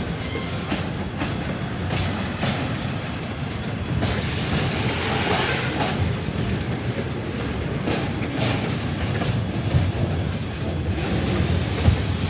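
A train rolling past: railway wagons' wheels clacking over rail joints over a steady rumble.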